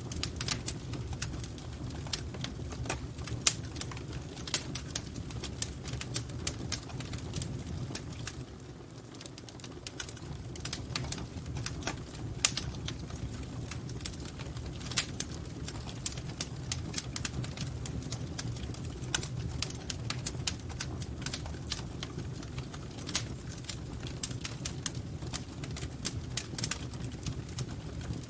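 Wood fire in a fireplace crackling: irregular sharp snaps and pops over a steady low rumble of the flames.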